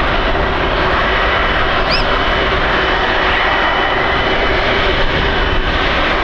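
Airbus Beluga XL's Rolls-Royce Trent 700 turbofan jet engines running loud and steady, a continuous jet noise with a faint steady whine in it.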